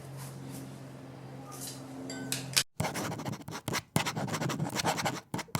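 A steady low hum, then, after an abrupt break about two and a half seconds in, dense irregular scratching and crackling of dry branches being worked into wood chips.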